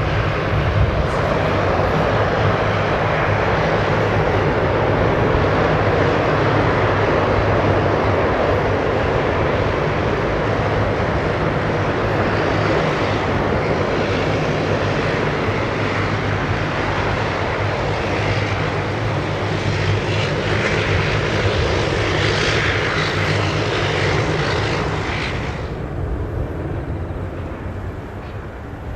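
Boeing C-17 Globemaster III's four turbofan engines running, a loud steady roar with a low hum beneath. About 26 seconds in the high hiss drops away and the sound begins to fade.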